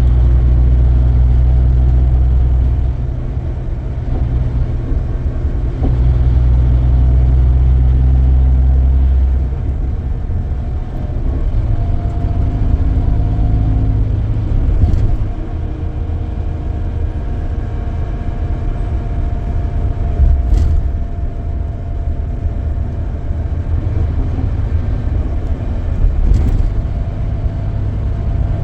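Scania K440EB coach's engine heard from inside the cabin, a heavy low drone under load that eases off about three seconds in, comes back, and eases again near ten seconds, then carries on at a steadier, lower level with road noise and a few light knocks.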